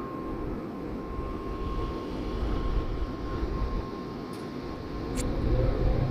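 Shinkansen train at a station platform: a steady low rumble that grows louder toward the end, over a faint steady whine, with two short clicks late on.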